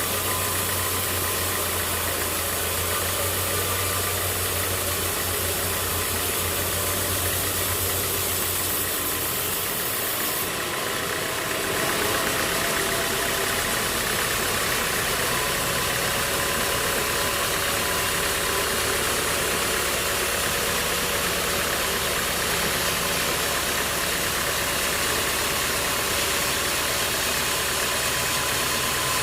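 An engine running steadily, its sound shifting and growing slightly louder about ten seconds in.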